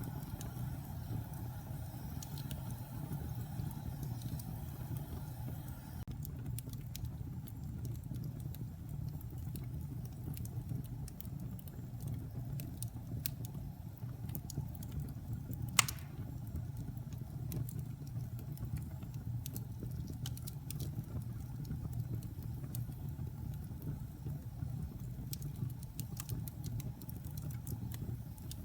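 Logs burning in a fireplace: a steady low rumble of flames with scattered small crackles and one loud pop about halfway through.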